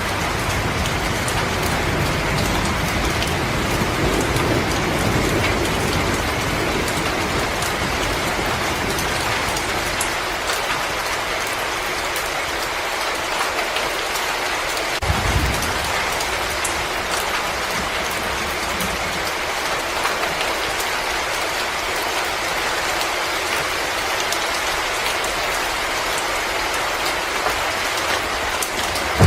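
Fireplace fire crackling with scattered small pops over a steady rain-like hiss of storm ambience. A low rumble runs through the first ten seconds, and a single low thump comes about halfway through.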